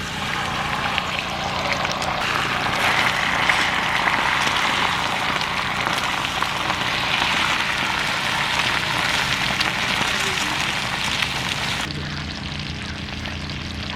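Food frying on a hot pan or grill: a steady crackling sizzle that grows louder about two seconds in. About twelve seconds in it cuts off abruptly and gives way to a duller, lower hum.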